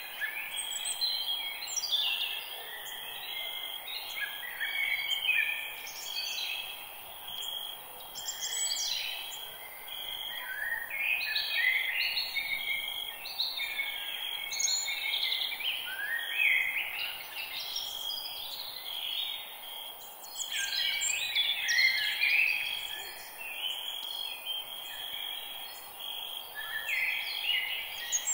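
Dawn-chorus-like birdsong in a forest: several songbirds chirping and trilling at once, with calls overlapping throughout over a steady background hiss.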